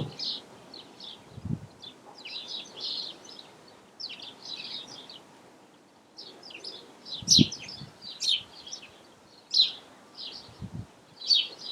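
Birds chirping and singing in short repeated phrases, with three brief dull low thumps about a second and a half in, midway and near the end.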